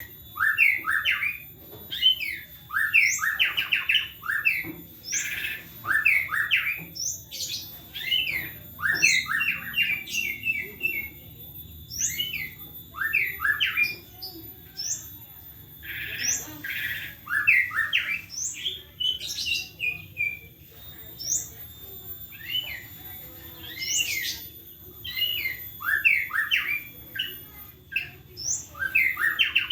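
White-rumped shama (murai batu) singing a fast, varied song whose phrases are filled with mimicked lyrebird calls: short clusters of quick sweeping whistles and chatters, coming every second or two.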